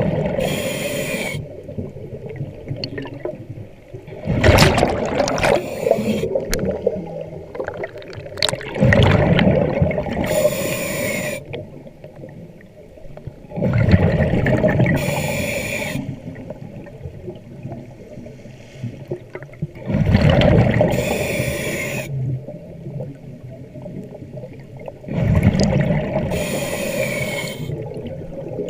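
Scuba diver breathing through a regulator underwater: a hissing inhale, then a bubbling rush of exhaled air, about five breaths in steady rhythm.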